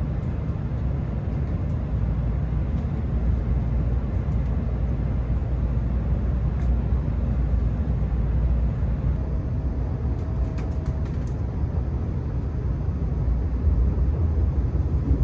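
Steady low rumble of a Kyushu Shinkansen 800 Series train running, heard inside the passenger car. A faint short hum and a few light ticks come about ten seconds in.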